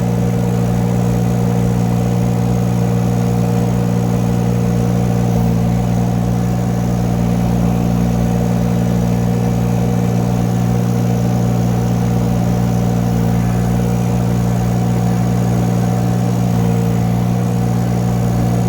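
Engine of a 2-ton Chinese mini excavator running steadily at constant speed, working to drive the machine up a hill.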